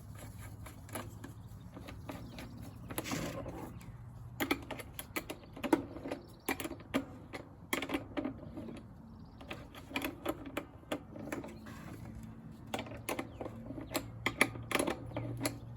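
Irregular sharp clicks and clinks of metal hand tools and sockets being handled and fitted, over a low steady hum.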